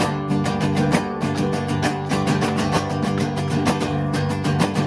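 Instrumental music between sung lines: guitar picked or strummed in a fast, even rhythm over sustained chords.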